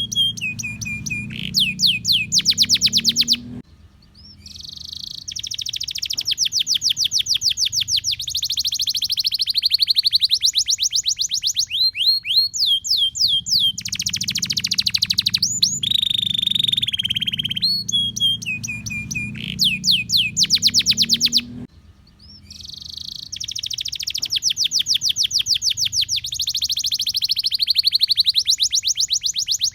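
Domestic canary singing a long song: fast trills and rolls of rapidly repeated notes broken by short gliding whistles, with the same phrases coming round again about every 18 s. A faint low hum runs under it and drops out twice.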